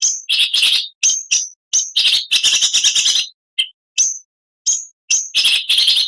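Oriental magpie-robin (kacer) singing: short sharp high notes broken by two longer bursts of fast scratchy chatter, about two and five seconds in.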